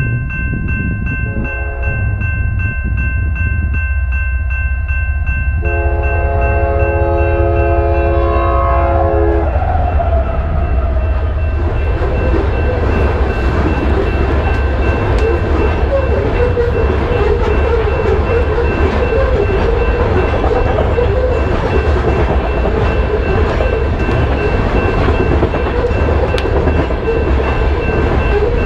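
BNSF freight train passing a grade crossing. The locomotive horn blows a long chord that drops in pitch as the locomotives go by at about ten seconds, over the crossing signal's ringing. After that, a long string of hopper cars rolls past with a steady rumble and wheel clatter.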